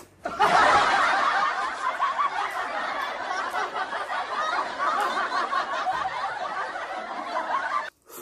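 Laugh track of many people laughing together, starting suddenly and cutting off sharply near the end.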